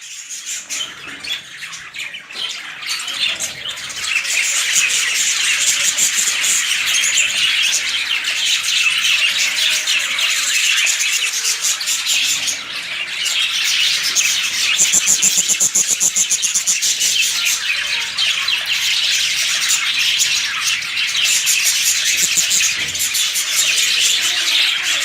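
A colony of lovebirds chattering, with many shrill chirps and squawks overlapping into a steady din that builds over the first few seconds.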